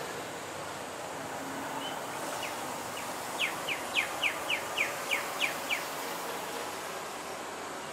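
A bird calling: a quick run of about ten short, falling notes, about four a second, over a steady background hiss.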